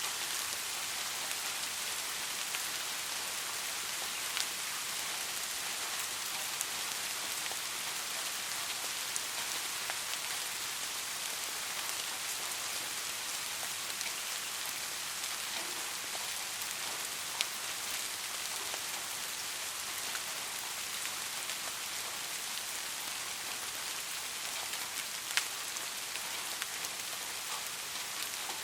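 Steady rain falling, an even hiss, with a few louder single drops ticking now and then.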